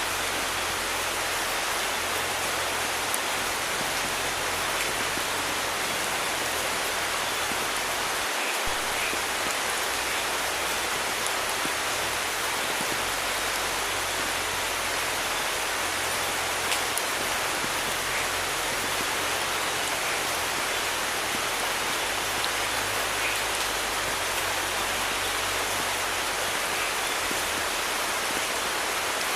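Steady rain falling, a dense even hiss with a few faint single-drop ticks.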